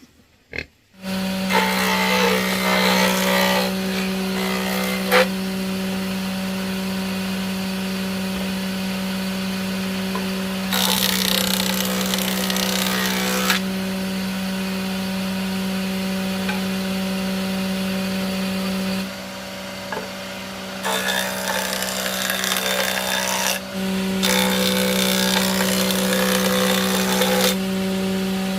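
Electric power saw starting up about a second in and running with a steady motor hum, with four louder stretches where it cuts into wood.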